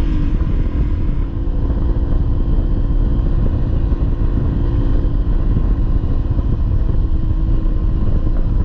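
Honda CRF300L single-cylinder dirt bike engine running at steady riding revs, over a heavy low rumble.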